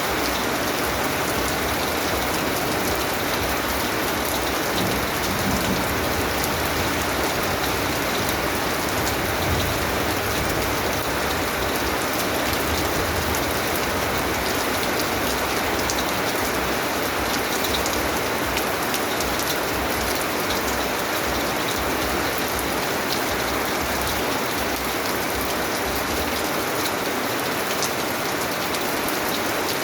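Steady rain falling: an even, unbroken hiss with scattered drop ticks.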